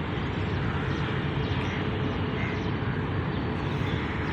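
Steady rumble and hiss of a railway platform beside a halted passenger train, with no single sound standing out.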